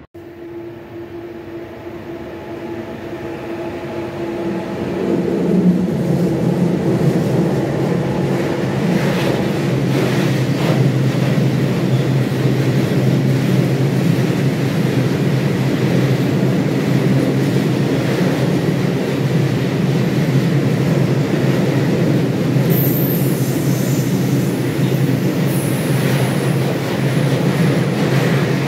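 A train approaching and passing close by. A steady hum builds over the first six seconds, then the wheels on the rails give a loud, steady rumble as the cars roll past.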